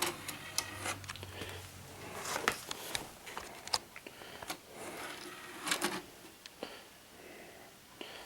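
A blank VHS cassette being handled and pushed into the loading slot of a mid-1980s Zenith VCR: scattered plastic clicks, taps and short scraping rustles.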